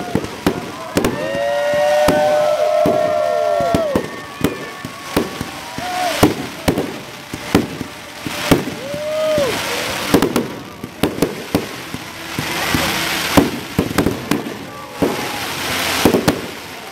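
Fireworks display: aerial shells bursting in an irregular string of bangs and crackles. Long whistling tones sound from about a second in and again briefly near the middle, falling away as they end.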